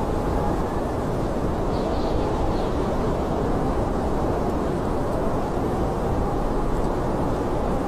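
Blizzard wind blowing steadily, a continuous low rushing noise without gusts or breaks.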